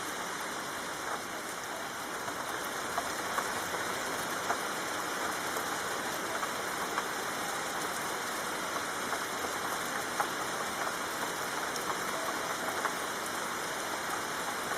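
Steady soft rain falling, a constant hiss dotted with scattered sharper drop taps.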